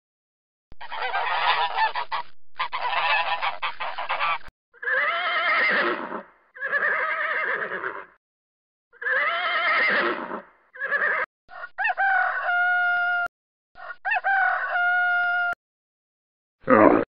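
Waterfowl calling: a series of honking and quacking calls in separate bursts with short gaps, several of them held on a steady pitch in the second half.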